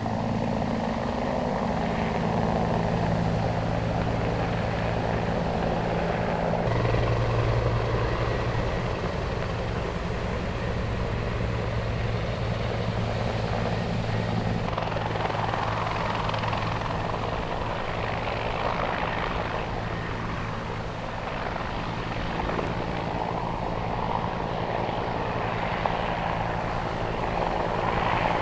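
Helicopter running steadily: the rotor's low steady tone under a broad engine and rotor wash noise, with the low tone shifting slightly a couple of times.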